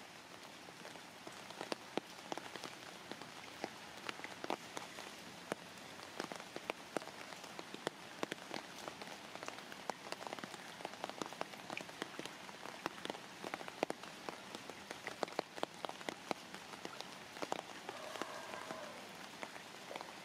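Rain falling on muddy standing floodwater: a steady hiss with many sharp, irregular drop splashes.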